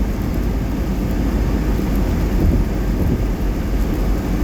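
Steady low rumble of a car driving on a wet highway: tyre and road noise with the engine, heard from inside the cabin.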